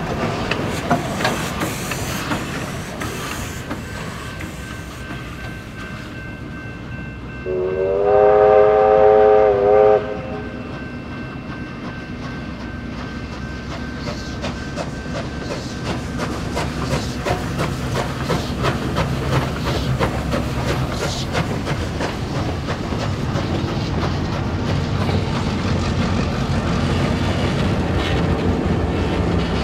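A train led by steam locomotive R761 and diesel S313 passes, its wheels clattering over rail joints and fading over the first several seconds. About seven and a half seconds in, a locomotive sounds one long chord-like whistle blast of about two and a half seconds, the loudest sound. Then the steady rumble and clatter of the train running by grows louder toward the end.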